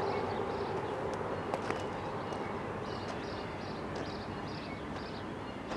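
Birds chirping in clusters of quick high notes that keep recurring, over a steady low outdoor rumble.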